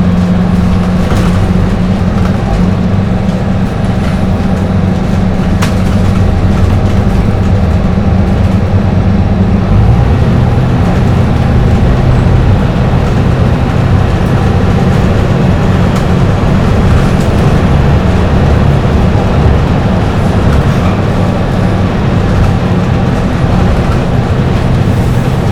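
Dennis Trident double-decker bus's diesel engine running at highway speed, with tyre and road noise. The steady drone drops in pitch about ten seconds in.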